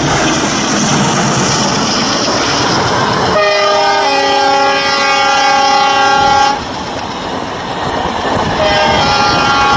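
A WDM-3D diesel locomotive rushes past at speed hauling a passenger express, then its horn gives a long blast of several notes at once, starting about a third of the way in and ending suddenly; a second blast begins near the end. The coaches' wheels rolling over the rails run under it all.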